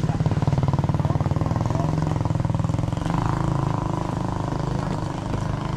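A small engine running steadily at an even speed, a rapid regular putter.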